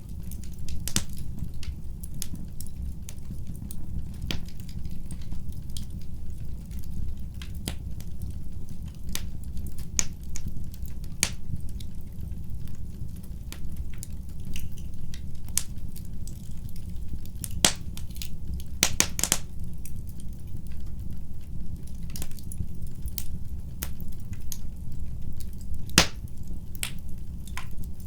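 Wood fire burning in a fireplace: a steady low rumble of the flames with irregular sharp crackles and pops, a quick burst of loud pops about two-thirds of the way through.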